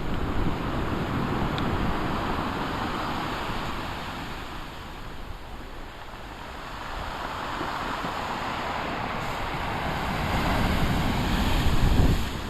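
Big waves surging and breaking on the shore, with wind rumbling on the microphone. The surf eases about halfway through, then builds again to its loudest near the end.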